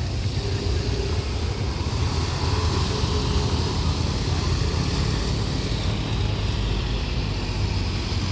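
Jet airliner's engines running up for takeoff: a steady low rumble with a broad rush of noise over it.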